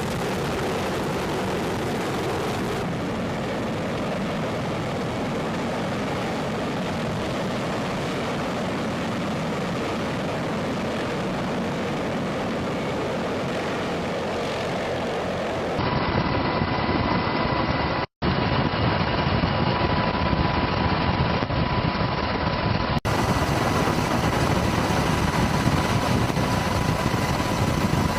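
Helicopter rotor and turbine engine noise, steady and loud, in several spliced clips. In the later clips a steady high turbine whine sits over the rotor noise.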